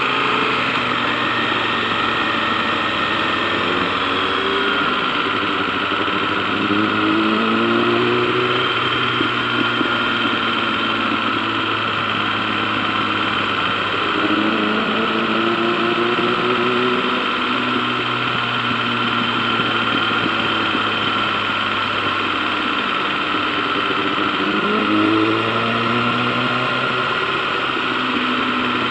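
KTM 1090 Adventure's V-twin engine running under way, its note dropping and then climbing again three times as the bike slows and accelerates.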